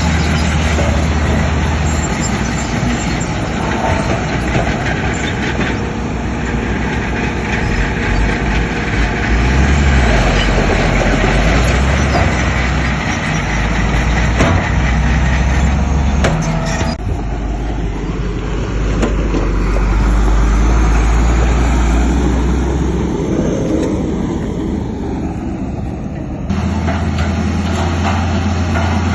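Heavy diesel earthmoving machinery, a bulldozer and dump trucks, running with a deep engine rumble and a few metallic knocks. The sound changes abruptly about 17 seconds in and again near the end.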